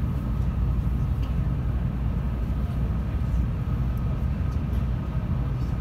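Low, steady rumble inside the passenger cabin of a 700 series Rail Star Shinkansen as the train starts to pull away slowly from the platform, with a faint steady whine over it.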